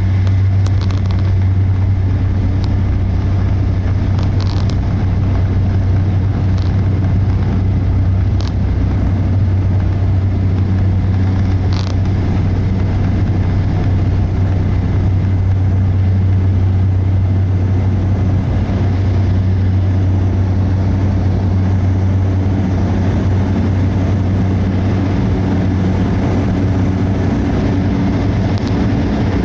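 Cessna 208B Caravan's single turboprop engine and propeller droning steadily, a constant low hum with no change in pitch.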